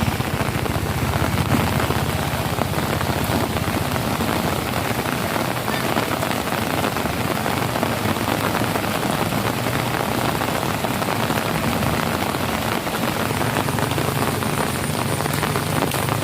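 Heavy rain pouring steadily onto the ground, roofs and puddles, a dense, even hiss with no let-up.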